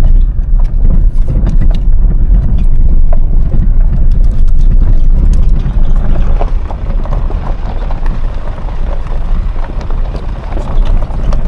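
Car driving on a rough dirt road: a loud, steady rumble with scattered ticks and rattles from the road surface.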